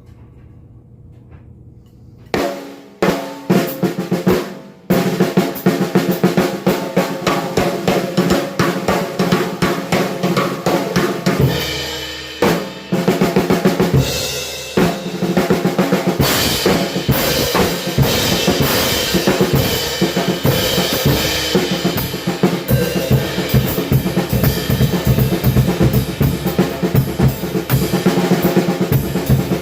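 Acoustic drum kit played fast in triplet patterns on snare and bass drum with cymbals. It opens with a couple of quiet seconds and a few separate hits, then breaks into an unbroken run from about five seconds in.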